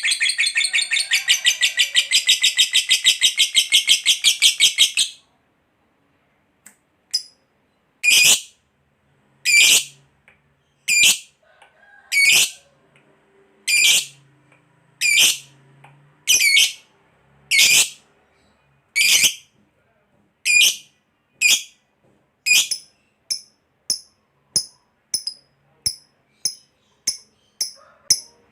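Lovebird giving a long, rapid chattering trill (the 'ngekek panjang' call), which cuts off about five seconds in. It follows with single sharp high calls about every second and a half, coming quicker, about two a second, near the end.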